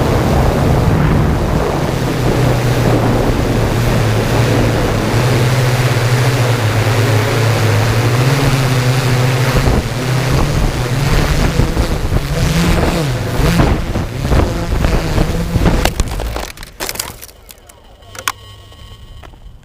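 Heavy wind noise on the microphone over the steady hum of the Yuneec Typhoon G drone's motors and propellers, the hum wavering in pitch as the throttle changes. About sixteen seconds in the loud noise cuts off abruptly, leaving a much quieter background with a few clicks.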